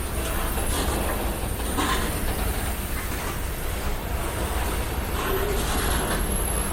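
BNSF freight train cars rolling past: a steady low rumble with a few sharp clacks of wheels over the rail joints.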